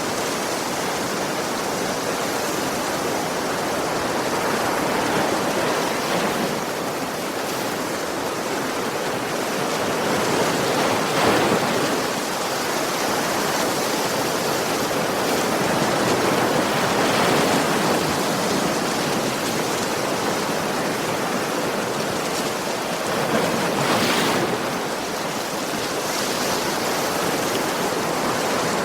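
Ocean surf: waves washing onto a shore in a continuous rushing hiss, swelling louder every five or six seconds as each wave breaks.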